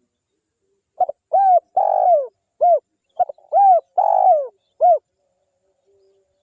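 Spotted dove (tekukur) cooing: two matching phrases of four or five arched coos each, each phrase with a longer falling coo in the middle. This is a wild dove's call of the kind used as a lure to draw other tekukur in.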